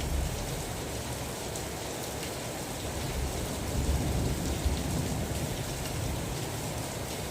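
Steady rain falling, with a low rumble of thunder that swells about four seconds in and fades again.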